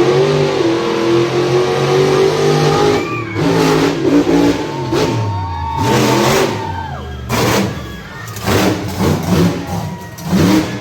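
Monster truck engine revving hard, the throttle closing and reopening several times so the pitch climbs and falls, then a run of short quick blips near the end.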